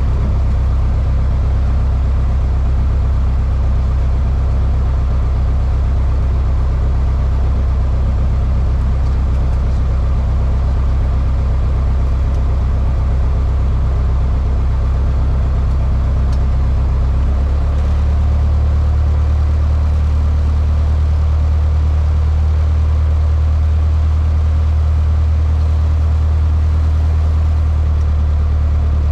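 Cessna 152's four-cylinder Lycoming engine and propeller droning steadily, heard from inside the cockpit. About two-thirds of the way through, the drone steps up slightly in pitch as the engine speed rises.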